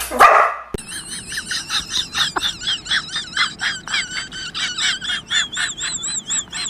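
A rapid run of high-pitched, warbling chirps, about four a second, steady in pace, following a shout that is cut off in the first instant.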